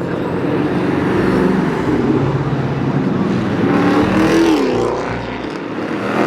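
Car engines revving, the pitch climbing and dropping, with one rev falling away about four and a half seconds in.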